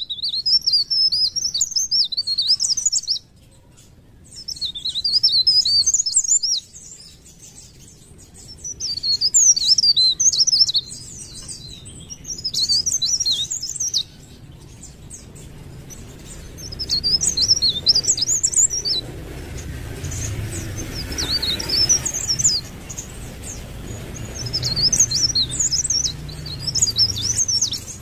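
Cikrak daun (blerengan), a leaf warbler, singing in quick, high twittering phrases of two to three seconds, about seven phrases with short pauses between, over a faint low hum.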